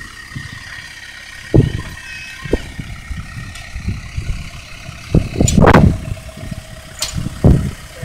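A vehicle engine running, with irregular low knocks and clunks and a louder clattering burst a little past the middle.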